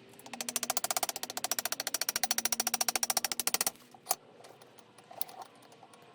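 Rapid, even clicking of a ratchet mechanism spun for about three and a half seconds while tightening a part of a vise, followed by a single knock.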